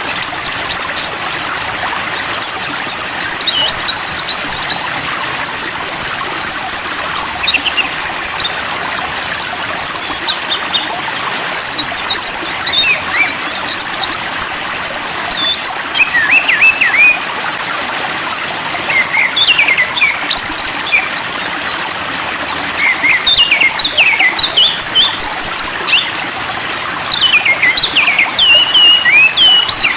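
Songbirds singing: quick clusters of short chirps and whistled notes that come in bursts every few seconds, over a steady hiss.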